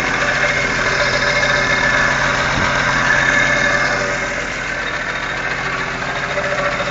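1974 AMC Gremlin engine idling steadily, which the owner thinks may need a new power steering pump.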